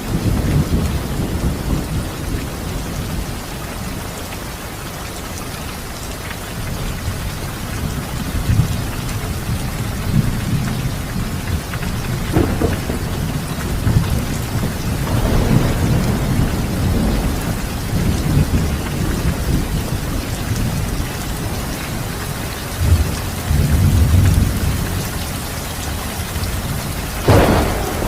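Steady rain falling, with thunder rumbling again and again underneath and a sharper thunderclap near the end.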